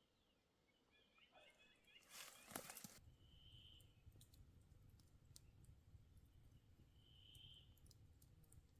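Near-quiet forest ambience: faint high bird notes, a brief rustling hiss about two seconds in, and a few scattered faint clicks.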